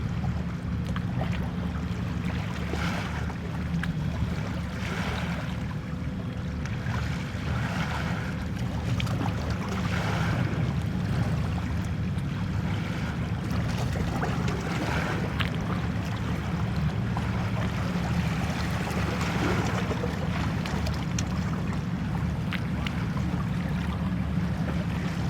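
Steady low rumble of wind and water at the sea's edge, with a wash that swells and fades every couple of seconds.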